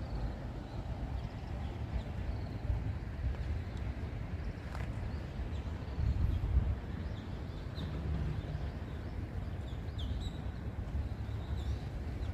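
Small birds chirping in short, high notes, scattered and more frequent in the second half, over a steady low rumble.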